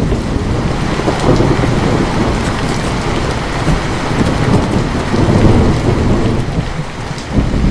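Heavy rain with rolling thunder: a steady downpour over deep rumbling that swells again near the end.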